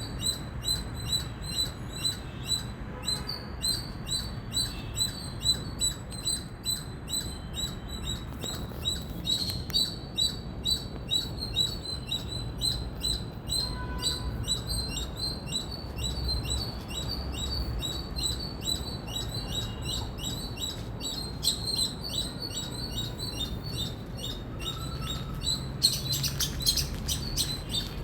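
Indian palm squirrel chirping: short, high, bird-like calls repeated steadily about two to three times a second, turning harsher near the end.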